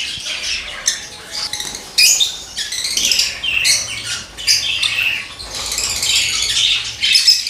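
Budgies squawking and chattering in an aviary: many overlapping short, high, scratchy calls with no break.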